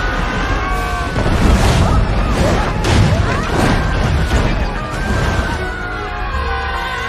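Animated-film soundtrack: music with crashes and booms over a low rumble, busiest in the middle.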